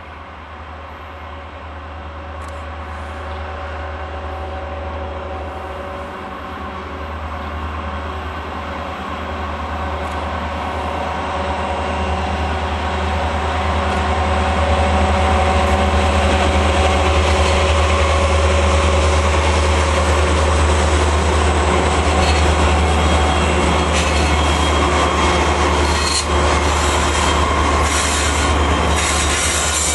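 BNSF freight train's diesel locomotives approaching and passing, their engines growing steadily louder until they go by about halfway through. Then the double-stack container cars roll past, with sharp wheel clicks near the end.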